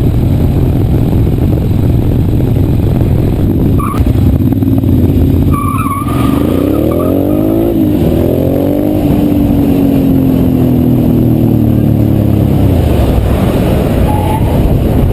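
Motorcycle engine under way over heavy wind rumble. About six seconds in, the engine revs up quickly, then its pitch sinks slowly as it eases off. Two short high-pitched tones come just before the rev.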